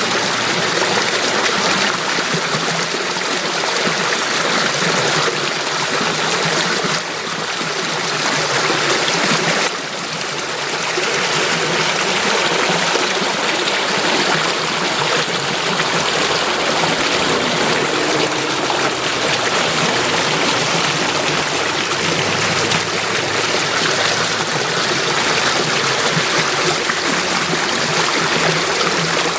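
Stream water flowing steadily, with the level dipping briefly about seven seconds in and again near ten seconds.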